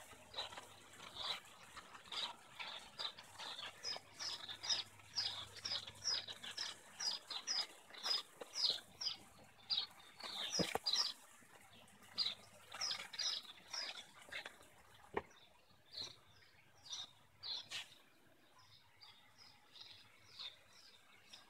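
Small birds chirping in a steady run of short, high chirps, several a second, growing fainter near the end. A couple of sharp knocks sound midway.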